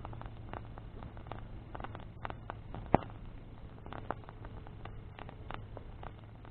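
Wood bonfire crackling, with irregular sharp pops and one loud pop about three seconds in, over a steady low hum.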